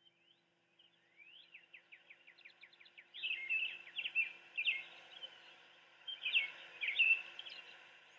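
A songbird singing: a rising note, then a fast trill of short notes, then louder phrases of chirps from about three seconds in.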